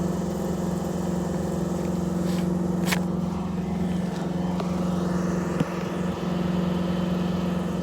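A steady mechanical hum at a constant pitch, with one sharp click about three seconds in.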